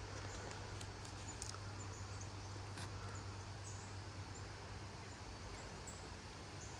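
Steady rushing wind noise with a constant low hum underneath, and a few faint, short high chirps scattered through it.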